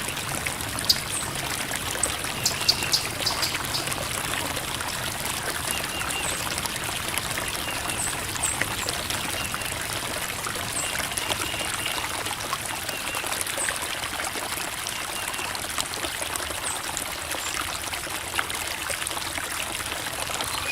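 Creek water flowing and trickling over rocks, a steady babble with a few sharper splashes about two to three seconds in.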